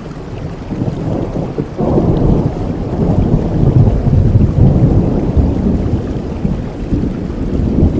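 Thunder rumbling over steady rain: a low rumble builds about two seconds in, is loudest around the middle, and slowly dies away toward the end.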